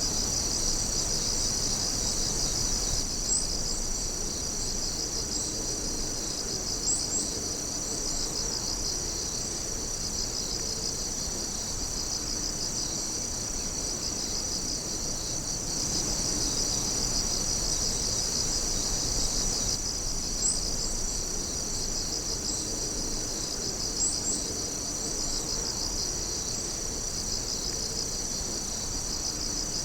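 A dense chorus of night insects calling steadily in fast pulsing trills. A few short, high chirps stand out here and there.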